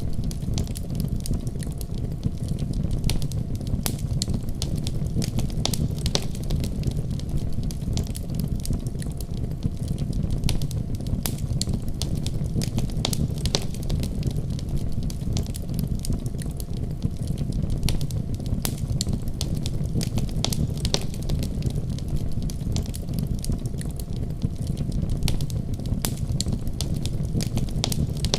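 Fireplace fire crackling continuously: a low, steady rumble of flames under frequent sharp pops and snaps.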